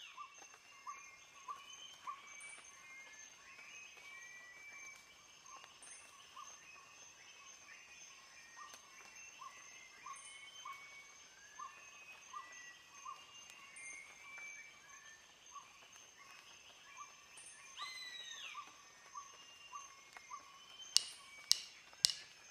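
Faint birdsong: several birds chirping and calling, one of them repeating the same short note over and over. A few sharp clicks near the end.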